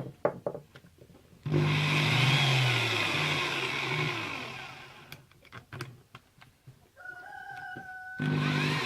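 Electric drill motor run in short bursts: it runs about a second and a half in and winds down over a few seconds after release, then starts again near the end. Light handling clicks and knocks come between the runs.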